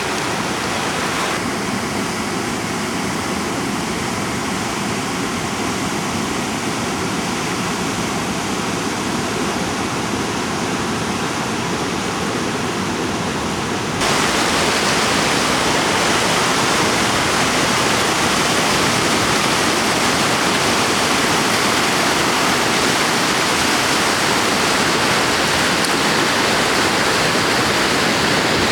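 Swollen River Exe in flood: a steady rush of fast-flowing floodwater. It jumps suddenly louder and brighter about halfway through.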